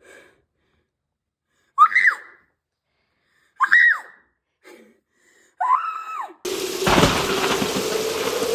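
Three short, shrill vocal cries, each rising and then falling in pitch, about two seconds apart. About six and a half seconds in, a loud steady hiss like rain starts suddenly, with a low droning tone under it.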